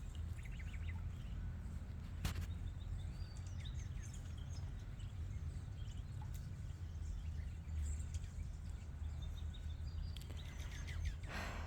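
Backyard songbirds chirping faintly and intermittently over a steady low rumble, with a single click about two seconds in.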